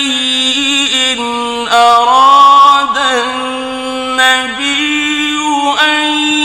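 A man's voice reciting the Quran in slow, melodic tajweed style, drawing out long, ornamented held notes with short glides between them.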